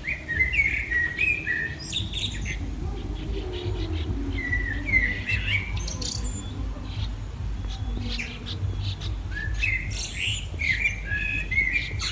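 Birds chirping in clusters of short calls every few seconds, over a steady low rumble.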